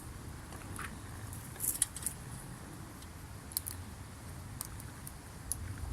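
Wood campfire crackling: a few short, sharp pops and clicks scattered over a low steady rumble, with a small cluster about two seconds in.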